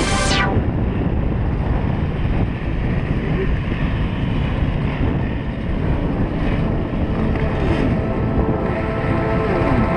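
Motocross bikes' engines heard under heavy wind buffeting on the microphone, with two falling-pitch passes near the end.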